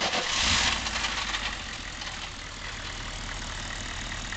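GM 6.5-litre turbo diesel V8 firing up: louder for the first second or so as it catches, then settling into a steady idle.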